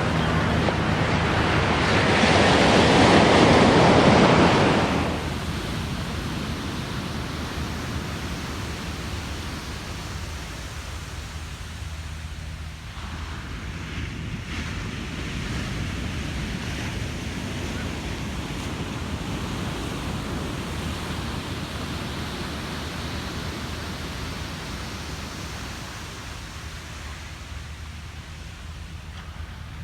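Ocean waves breaking on a beach: one loud crash about two seconds in that washes out by about five seconds, then a steady wash of surf that slowly fades.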